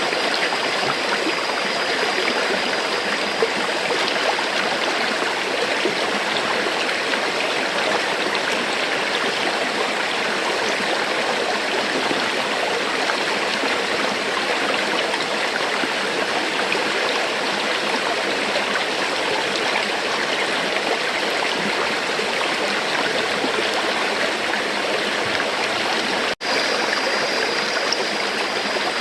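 River water flowing steadily, a dense, even rush of moving water. Near the end it drops out for a split second before the flow sound resumes.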